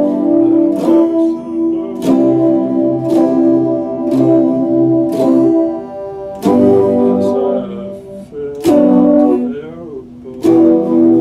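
Epiphone Les Paul Special II electric guitar played in strummed chords, one struck about every second and left to ring, with a bent, wavering note shortly before the last chord.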